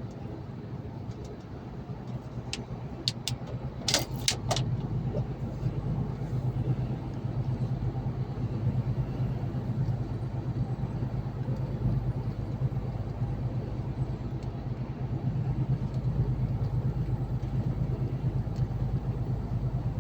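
Lorry engine and road noise droning steadily while driving, getting a little louder about four and a half seconds in. A few sharp clicks or rattles come between about two and a half and four and a half seconds.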